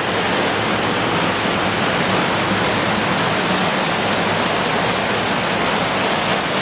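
Steady rush of water in an underground cave streamway, close to a waterfall.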